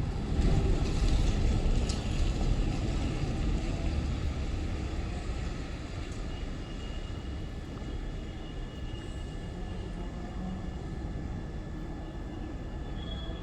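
Wind buffeting the microphone: a low, rough rumble, strongest in the first few seconds and then steadier.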